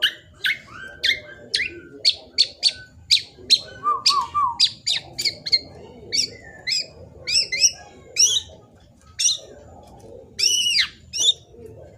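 Young black-naped oriole (kepodang emas) calling in a fast run of short, sharp, high notes, mostly quick downward sweeps. There is a brief lower warbled trill about four seconds in and a few arched, harsher calls near the end.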